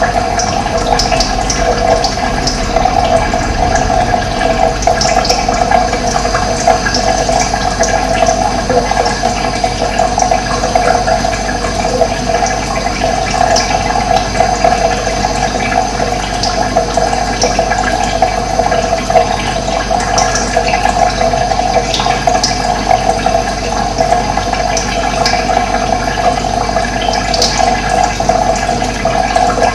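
Steady running water, with short high bird calls here and there.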